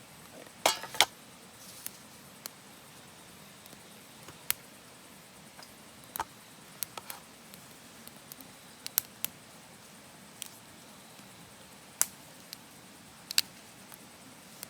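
Wood fire crackling in a small box stove: sharp, irregular pops and snaps, a few close together about a second in and then single ones every second or two, over a faint steady hiss.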